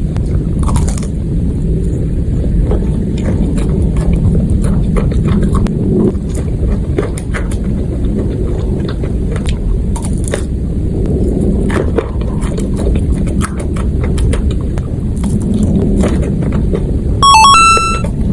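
Close-miked mukbang eating sounds: heavy, wet chewing with many small crunches and clicks. Near the end a short electronic jingle of stepped tones sounds.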